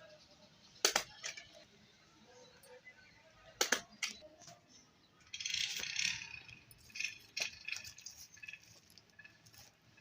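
Small objects being handled: sharp clicks and clinks about a second in and again near four seconds, with a rustle in the middle and scattered light ticks.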